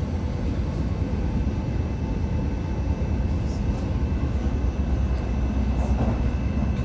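Steady low rumble heard inside an IZBAN electric commuter train carriage running at speed.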